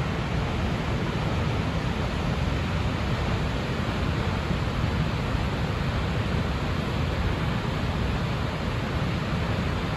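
Steady, even rushing of Snoqualmie Falls, a 268-foot waterfall, unchanging throughout.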